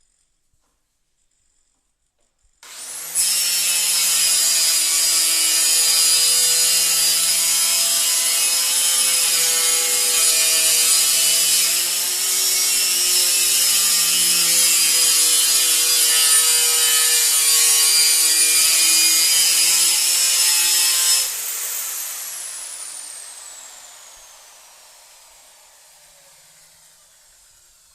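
Electric woodworking power tool running at full speed with a loud, many-toned whine, its pitch dipping slightly about twelve seconds in. It is switched off after about eighteen seconds and the motor winds down with a falling whine.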